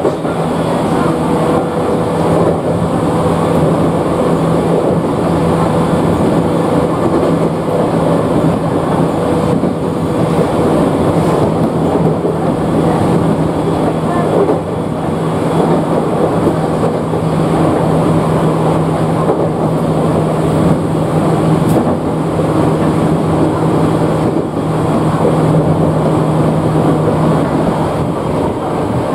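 Cabin noise of a Chichibu Railway 7500 series electric train running between stations: steady wheel-and-rail rumble with a constant low hum from the running gear.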